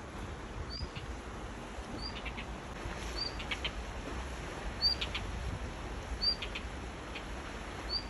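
A small songbird calling over and over, each call a short high note followed by a quick rattle of clicks, about once every second and a half, over a low steady rumble.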